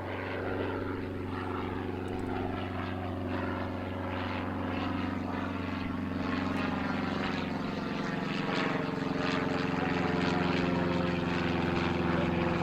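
Propeller aircraft's engines droning with a steady multi-tone hum, growing gradually louder as the aircraft approaches.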